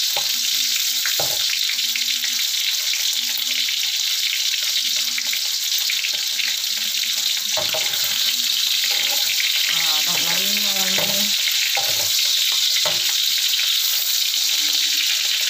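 Chicken and potato pieces sizzling steadily in hot oil in a wok, with a metal spatula scraping and knocking against the pan now and then as they are turned.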